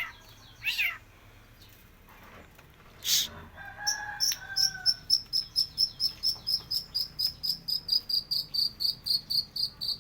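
Long-tailed shrike singing while in moult. A few sharp calls and a falling whistle come first, then from about four seconds in a fast, even high chirping at about five pulses a second, its mimicry of a cricket.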